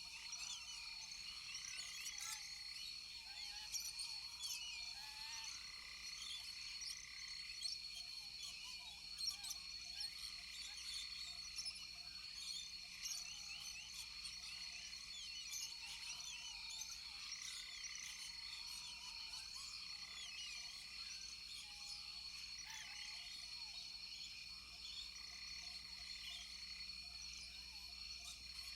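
Rainforest night chorus: many frogs calling over one another in short, overlapping chirps and croaks, with a steady high insect drone underneath.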